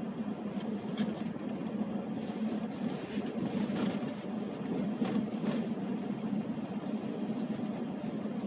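Car interior noise while driving: a steady low engine hum with tyre and road rumble, and a few faint brief clicks.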